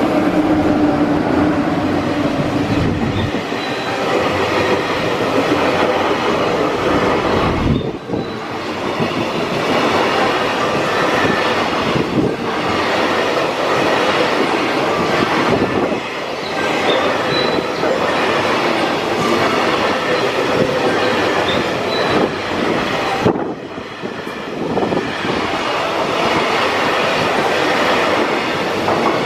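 Freight train passing through the station without stopping, a long, loud, continuous run of wagons rolling by with the wheels clattering on the rails.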